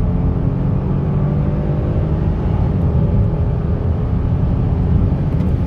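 Kia Stinger GT's twin-turbo V6 under full-throttle acceleration, heard from inside the cabin, with its note climbing steadily over heavy low road rumble during a launch-control run.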